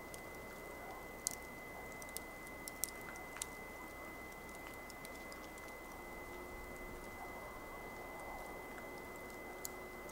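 Wood campfire crackling: a few sharp pops, most of them in the first few seconds and one near the end, over a steady low hiss.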